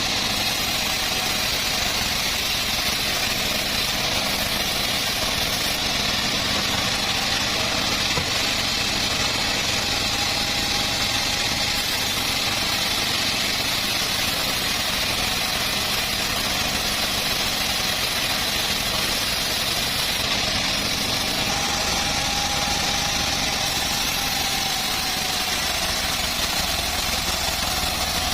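Engine of a homemade log sawmill running steadily under a constant load, with a hissing, whining edge from the saw.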